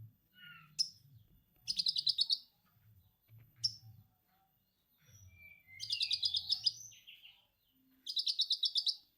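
Konin songbird singing lovebird-style 'ngekek' chatter: three fast, high chattering trills of about three-quarters of a second each, with single sharp chirps and softer calls between them. A faint low hum runs underneath.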